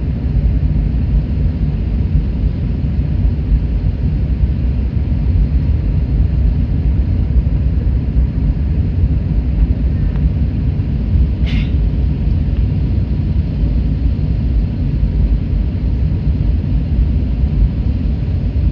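Steady low rumble of engine and airflow noise inside the cabin of an Airbus A321neo airliner, heard from a seat near the rear. One short click sounds a little past the middle.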